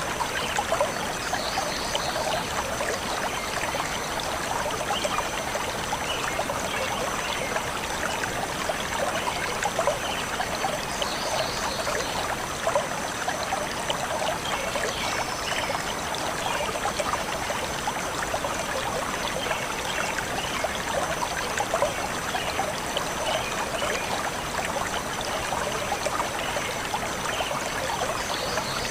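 A shallow forest stream flowing steadily over stones, with a continuous babble of small splashes and trickles. Faint short bird chirps come through now and then.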